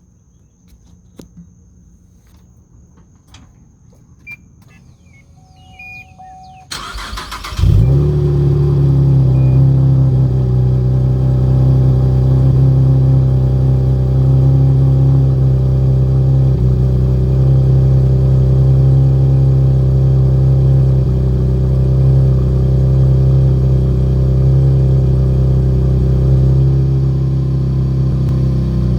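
2014 Chevrolet Camaro's 3.6 L LFX V6 cold-started through the NPP dual-mode exhaust, its valve held open with the fuse pulled. After a few faint clicks, the starter cranks for about a second, then the engine catches with a loud flare and settles into a steady high idle.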